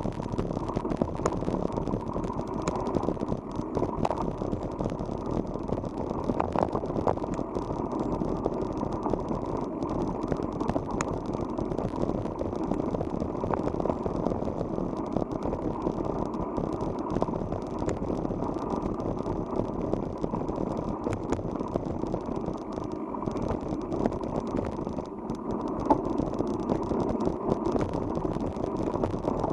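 Bicycle being ridden over a rough track: a steady rumble of tyres and wind with rattling and small clicks from the bike.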